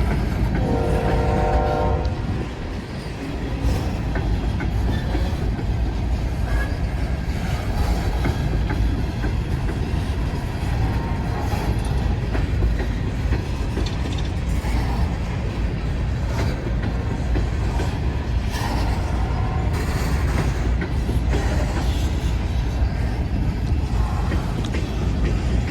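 Empty coal cars of a long freight train rolling slowly past, with a steady low rumble and clatter of wheels over the rails and occasional clanks. A train horn sounds briefly near the start, for about a second and a half.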